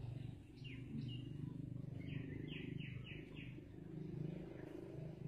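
Bird chirping: two short falling notes about a second in, then a quick run of four falling notes, over a steady low hum.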